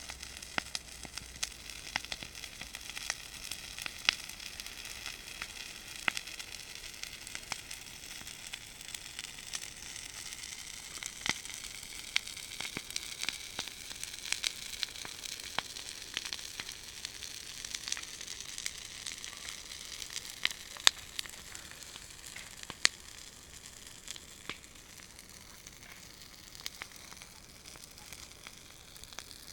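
Campfire crackling: a steady hiss with irregular sharp pops, a few of them louder, easing off somewhat near the end.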